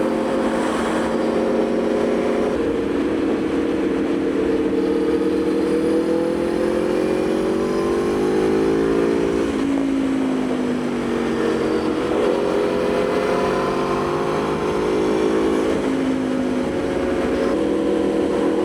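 Aprilia Tuono V4's V4 engine pulling under way: its pitch climbs for several seconds, drops about halfway through, climbs again, then steadies near the end. Wind rushes past throughout.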